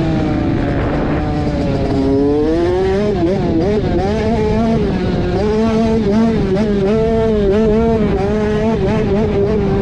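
Motocross dirt bike engine revving under throttle during a track lap. Its pitch sinks about two seconds in, then rises and falls quickly and repeatedly as the throttle is worked over the track.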